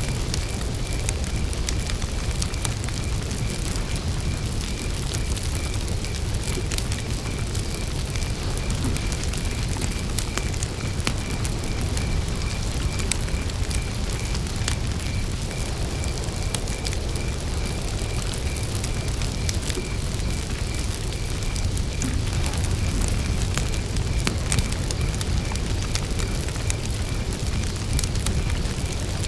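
Wood campfire crackling, with scattered sharp pops over a steady low rumble of burning. A cricket chirps in a steady, evenly spaced pulse in the background.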